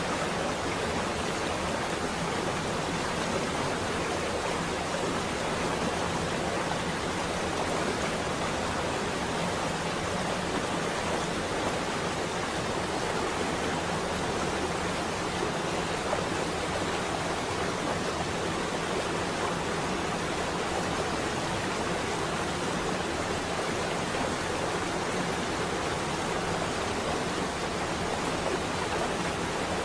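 Steady rain on a window, an even hiss with no let-up.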